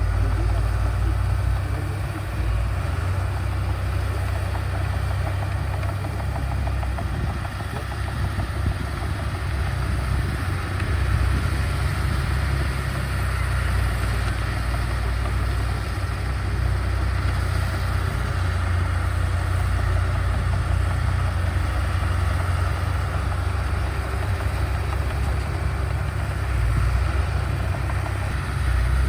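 Heavy earthmoving machine's diesel engine running steadily with a deep, constant rumble.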